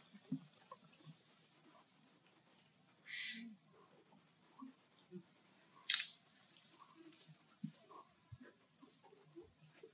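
A small bird's short, high chirp repeated regularly, about once a second, with a brief hiss about three seconds in.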